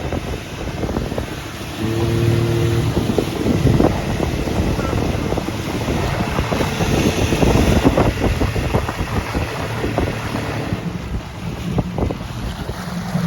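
Motorboat running at speed, with heavy wind buffeting on the microphone over the engine. A steady engine tone comes through more clearly in the last couple of seconds.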